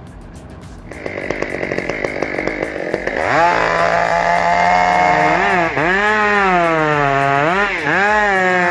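Chainsaw running at part throttle from about a second in, then opened up to full throttle about three seconds in. Its pitch dips and recovers a few times as the chain bogs in the cut, felling a large spruce.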